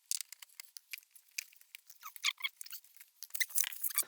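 Plastic trunk trim clips being pried out: scattered small clicks, crackles and creaks of plastic, growing busier near the end.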